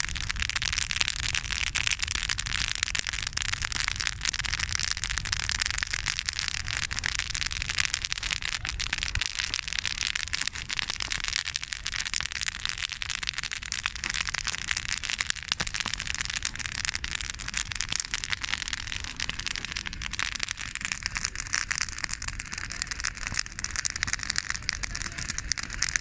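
Campfire of spruce branches burning, with dense, rapid crackling and popping from the burning needles and twigs and a low rumble underneath.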